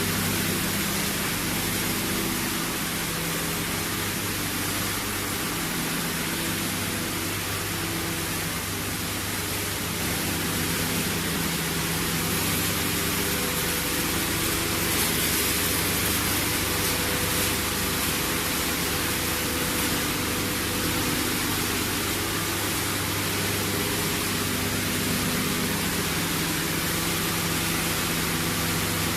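Machinery of a PET bottle washing and recycling line running steadily: an even rushing noise over a low, constant mechanical hum.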